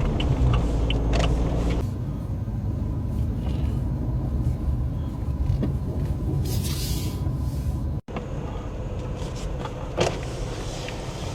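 Car driving at low speed: a steady low engine and road rumble, with a brief hiss about two-thirds of the way through.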